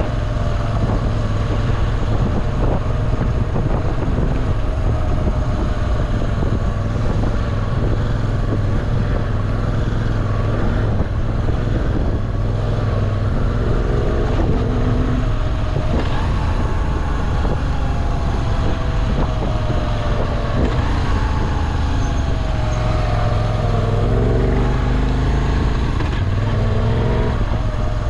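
Moto Guzzi V7 Classic's OHV V-twin engine running as the motorcycle is ridden, its pitch rising and falling again and again with the revs over a steady low drone.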